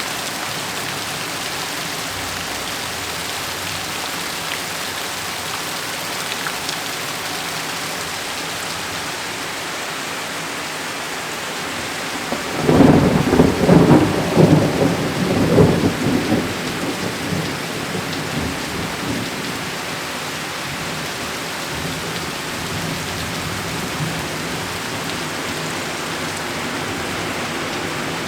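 Steady heavy rain, with a sudden crack of thunder about halfway through that rumbles and crackles for several seconds before dying away.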